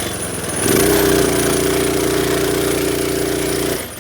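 Minibike's small engine held at full throttle at a steady high pitch, then let off near the end.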